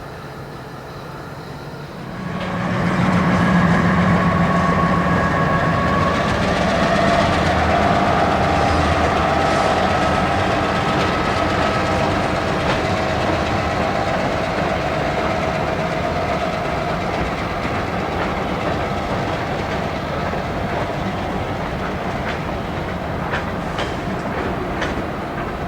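A diesel-hauled train passing close by: its sound rises sharply about two seconds in and stays loud, then slowly eases off as the cars roll past, with clicks of wheels over rail joints near the end.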